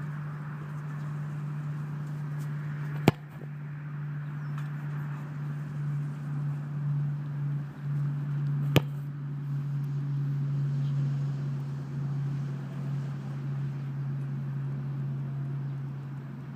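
Two sharp thumps of a soccer ball being struck on free kicks, about five and a half seconds apart, over steady wind noise on the microphone.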